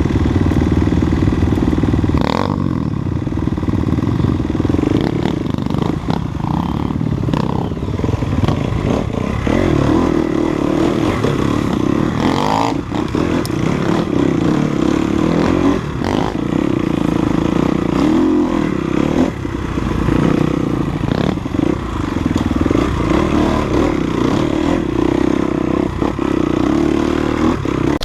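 Enduro dirt bike engine running at varying revs while riding a trail descent, with scattered knocks and clatter from the bike going over rough ground.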